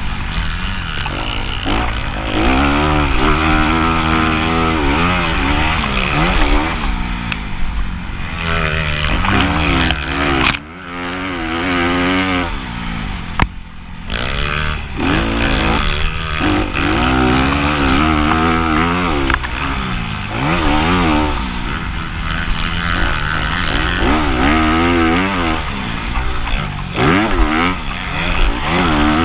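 Motocross dirt bike engines running hard under throttle, their pitch climbing and dropping again and again with throttle and gear changes. The sound drops away briefly about ten seconds in.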